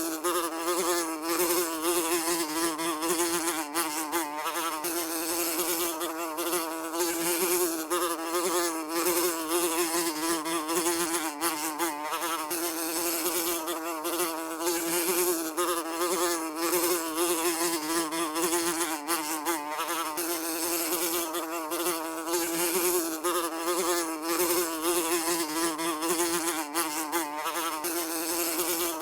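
A fly buzzing continuously: a steady drone whose pitch wavers slightly up and down as it flies.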